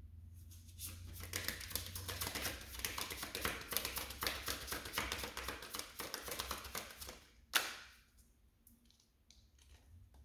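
A deck of tarot cards being shuffled by hand: a dense run of quick card clicks lasting about six seconds, then one sharp snap of the cards about seven and a half seconds in, followed by a few soft clicks.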